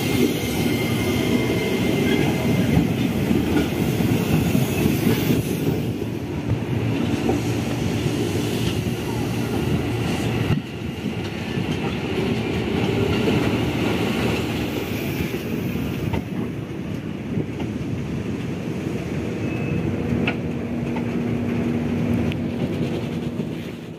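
Electric commuter trains and then locomotive-hauled passenger coaches rolling past on the rails: a steady rumble with wheels clacking over rail joints and points. There is an abrupt cut to a new train about ten seconds in, and the sound fades out at the end.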